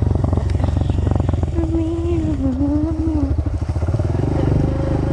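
Dirt bike engine running under way, its pitch dipping and climbing again about halfway through as the throttle changes.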